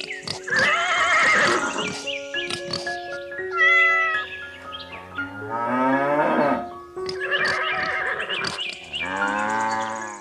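Farm animal calls, several wavering drawn-out cries, heard over background music with steady held notes; the sound cuts off abruptly at the very end.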